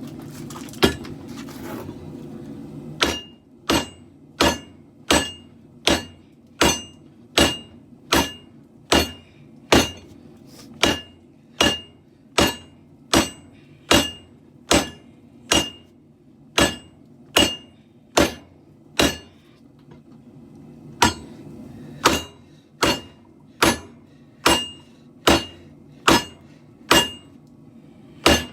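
Hand hammer striking hot katana steel on an anvil, a steady run of ringing blows at about one and a half a second that starts a few seconds in and pauses briefly about two-thirds through. A propane forge burner rumbles steadily underneath.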